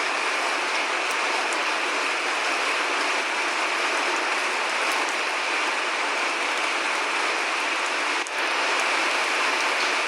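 Steady rain: an even hiss with faint scattered drop ticks and no thunder.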